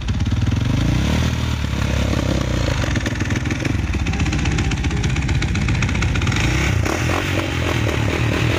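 Motocross bike's engine running on the choke, its note shifting about a second in and then running on unevenly.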